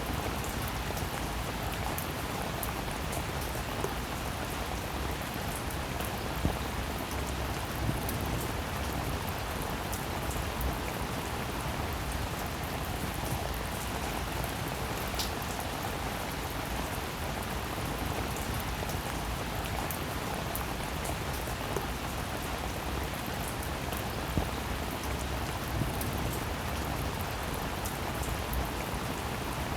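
Steady rain: an even hiss of falling rain with many separate drop ticks and a few louder single drops landing.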